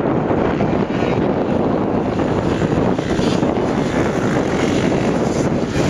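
Motocross dirt bike engines running on the track, a steady unbroken din, with wind buffeting the microphone.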